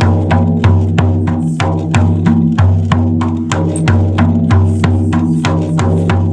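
A drum beaten in a steady rhythm, about three strokes a second, each stroke ringing with a deep resonant tone.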